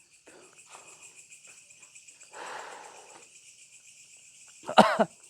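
Crickets chirping steadily in a rapid pulsing trill. A rustle comes about two and a half seconds in, and near the end a short, loud cry falls in pitch.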